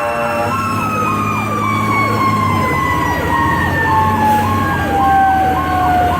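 Fire truck's Federal Q mechanical siren winding down, its pitch falling slowly and steadily, over an electronic siren yelping about twice a second and the truck's engine. A steady air-horn blast cuts off about half a second in.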